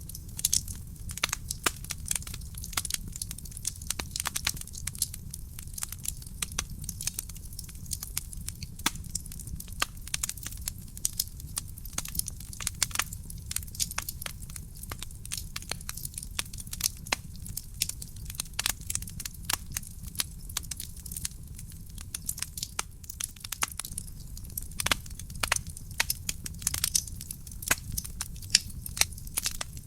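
Wood fire burning in a fireplace, crackling and popping constantly, with dense irregular snaps of varying loudness over a steady low rumble.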